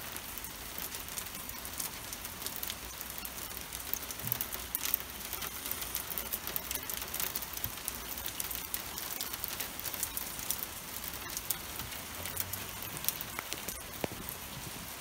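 Steady rain pattering on pavement and other hard surfaces, with a constant scatter of small sharp ticks from individual drops.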